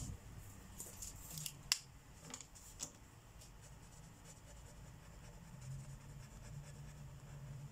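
Marker tip scratching on paper in short strokes, with one sharp click a little under two seconds in, then the strokes fade to faint.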